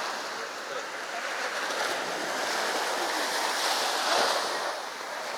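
Sea waves breaking on a beach: a steady wash of surf that swells to a peak about four seconds in and then eases.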